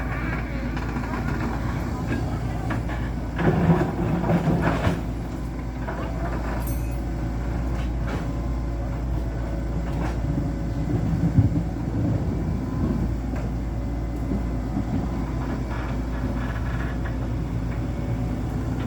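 A steady machine rumble, like an engine running, with clattering knocks and rattles a few seconds in and again about halfway through.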